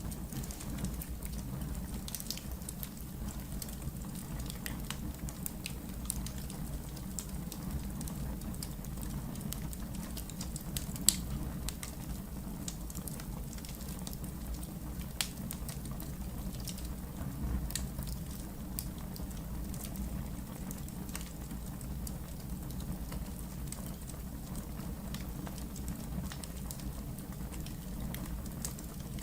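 Wood fire burning in a fireplace: a steady low rumble of flames with scattered small crackles and pops, and one sharper pop about eleven seconds in.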